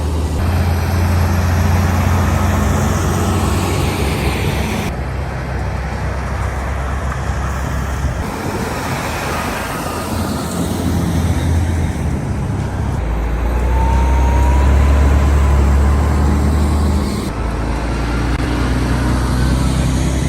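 Heavy tractor unit's diesel engine running under load while hauling a large excavator on a low-loader. A deep, steady drone changes pitch abruptly several times.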